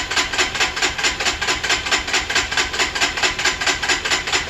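Lifan KPR 200's single-cylinder engine being cranked by its electric starter in an even, rapid chugging rhythm without catching: the freshly assembled bike won't start.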